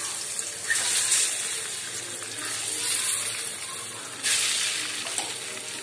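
Boiled eggs sizzling in hot spiced oil in a kadai, a steady frying hiss. About four seconds in the sizzle suddenly flares louder as another egg goes into the oil.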